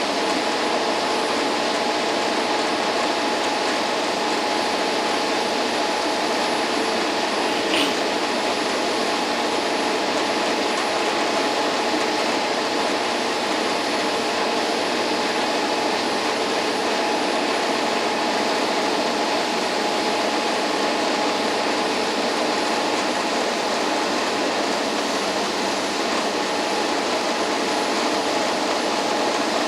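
Express passenger boat's engines running at steady speed: an unbroken drone of hum and hiss. A brief high squeak comes about 8 seconds in.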